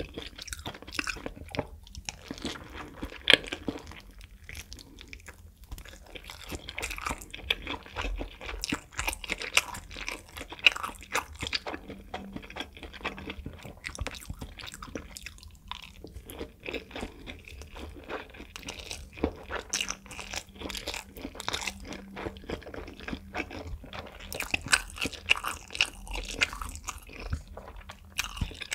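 Close-miked biting, crunching and chewing of fire noodle wraps (spicy buldak noodle wraps): a steady run of crisp crunches, with a few sharp, loud bites about three and eleven seconds in.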